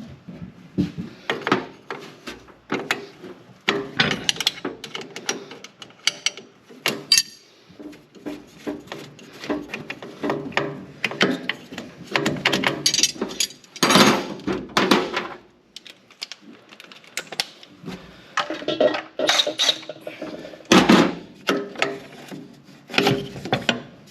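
Hand tools working loose the turbo drain line fitting on a Deuce and a Half engine: irregular clicks, wrench scrapes and metal clinks, with louder knocks about 14 and 21 seconds in.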